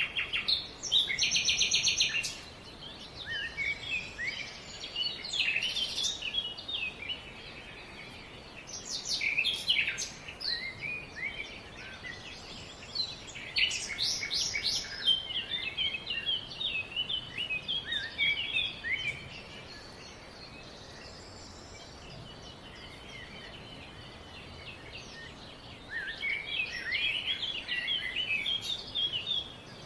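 Several songbirds chirping and trilling in bouts of quick, high notes with quieter gaps between, over a steady faint background hiss.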